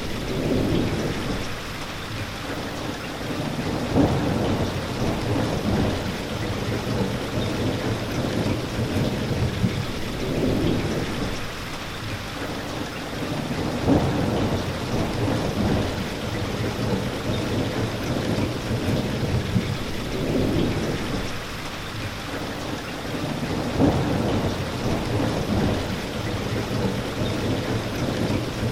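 Steady rain falling, with a low rumble that swells and fades every few seconds and a brief louder peak about every ten seconds.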